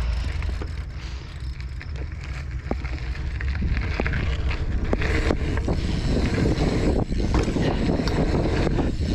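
Wind buffeting the microphone while riding a BMX bike over dirt, with scattered clicks and rattles from the bike; it grows louder a few seconds in.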